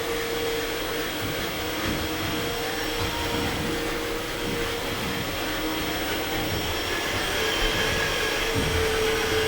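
A small motor whining steadily at one pitch over a hiss.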